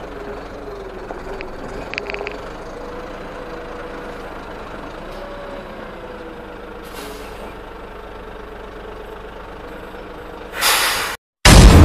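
Concrete mixer truck running steadily, with a short loud hiss near the end and a sudden loud bang at the very end.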